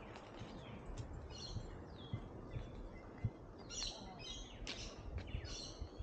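Birds calling from the trees: short chirps and quick downward-sliding notes, busiest in the second half, over a low steady outdoor rumble. A single sharp thump about three seconds in.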